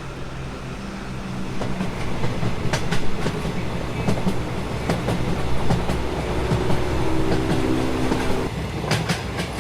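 Train running on the tracks: a steady rumble with clicks of wheels over rail joints. A pitched hum joins about six seconds in and cuts off a couple of seconds later.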